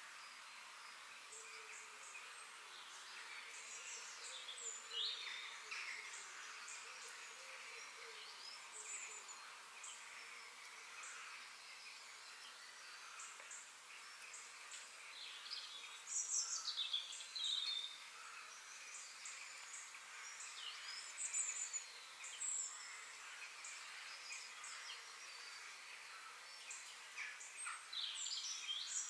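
Several forest birds singing and chirping over a steady background hiss of insects or distant ambience, with short high chirps and falling whistles throughout and louder bursts of song now and then.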